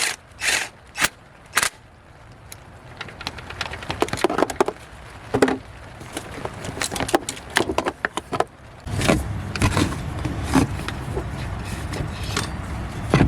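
A ratchet wrench on a swivel and extension clicking rapidly at first as the belt tensioner bolt is worked. Then scattered metal clinks and tool-handling knocks in the engine bay.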